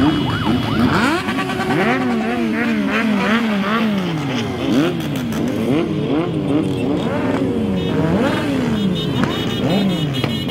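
Many motorcycle engines revving and running at once, their pitches rising and falling over one another without a break.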